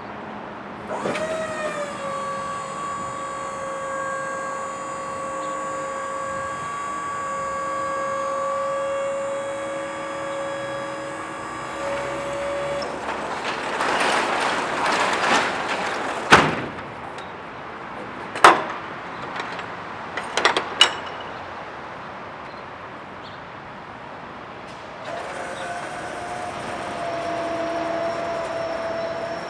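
Truck lift gate's electric-hydraulic pump motor running with a steady whine for about twelve seconds. Then comes a rushing noise and four sharp metal clanks. The pump whines again for the last few seconds.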